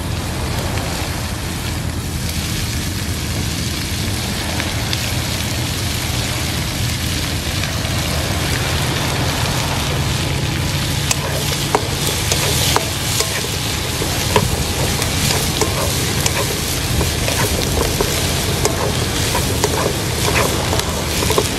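Sliced onions sizzling as they fry in melted butter in a pan. From about halfway in, a utensil stirring them clicks and scrapes against the pan.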